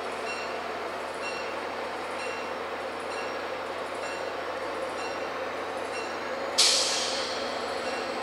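MBTA diesel commuter train pulling slowly out of the station, its engine running steadily and its bell ringing about once a second. About six and a half seconds in comes a sudden loud hiss that fades over about a second.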